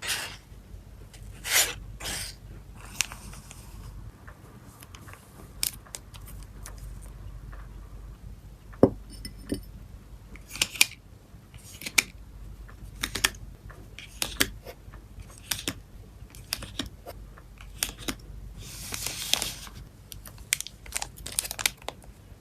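Photocard packing: plastic sleeves and packaging being handled, with scattered sharp taps and clicks, short crinkles, and a longer rustle near the end.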